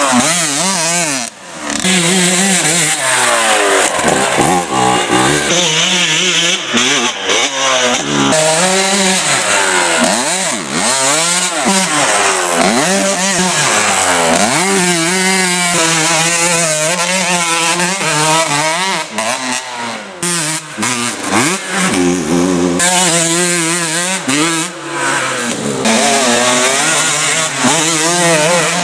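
Dirt bike engine revving up and backing off again and again, its pitch repeatedly rising and falling. The level dips briefly about a second in and again about twenty seconds in.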